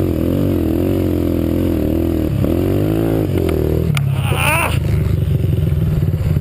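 Dirt bike engine revving, its pitch rising and falling with the throttle. Just after four seconds a higher-pitched engine note sweeps up and back down briefly, and the engine sound then turns choppy and uneven.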